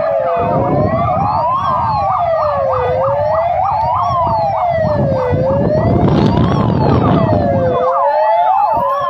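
Several fire truck sirens sounding together, sounded in celebration of rain. One slow wail rises and falls about every two and a half seconds, and faster yelping sirens join about a second in and again near the end, over a low rumble.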